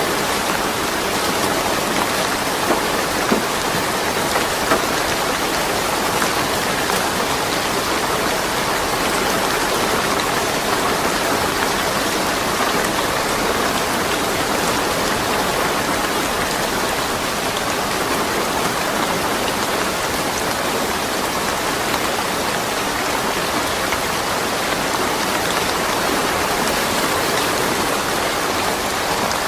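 Steady rain falling, with no thunder, and a few sharper individual drops standing out in the first few seconds.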